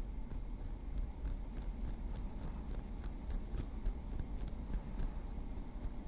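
A small wooden stick tapping lightly: quick, crisp little taps coming unevenly at about four a second.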